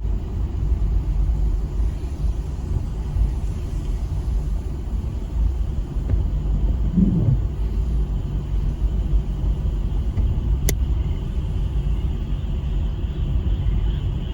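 Steady low outdoor rumble, with a single sharp click about ten and a half seconds in and a faint high steady hum growing stronger near the end.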